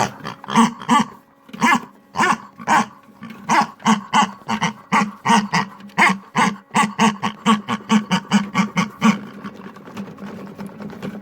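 Kinder Surprise eggs tumbling in the drum of an LG washing machine, knocking and rattling against it in a quick, irregular run of sharp knocks. The knocks come closer together past the middle and thin out near the end.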